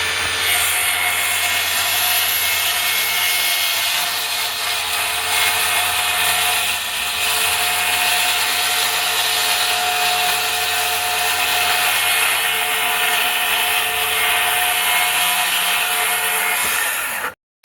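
Electric power saw running continuously as it cuts through plywood, a steady whine over the cutting noise, stopping abruptly near the end.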